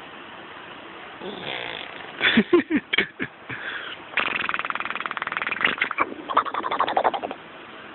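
Imitation fart noises made by a person: a few short sputtering blurts about two seconds in, then a long buzzing raspberry lasting about three seconds.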